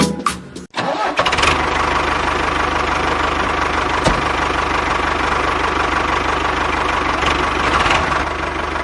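A motor starts running about a second in, as a short burst of music ends, and keeps running steadily and evenly. There is a single brief click about four seconds in.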